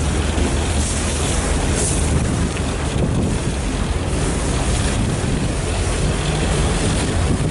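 Strong wind buffeting the microphone over the steady low drone of a harbour ferry's engine.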